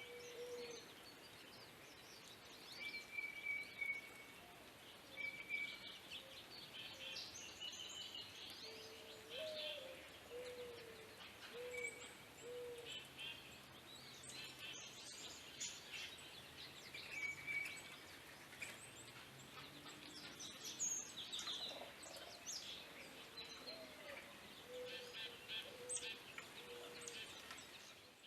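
Several wild songbirds calling together: short low notes repeated every second or so, a high steady whistle now and then, and many quick high chirps and trills, over faint outdoor background noise.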